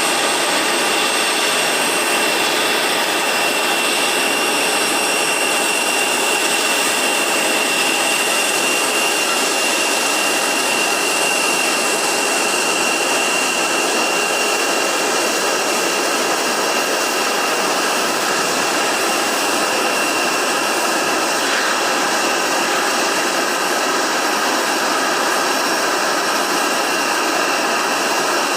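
Boeing 737 MAX 8's CFM LEAP-1B turbofan engines running at idle as the jet taxis in to the terminal. A steady rushing noise with a high, steady whine over it.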